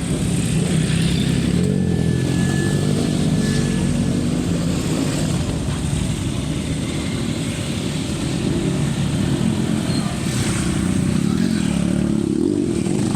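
Motorcycle engine running steadily at low revs, with a low, throbbing pitch that wavers slightly.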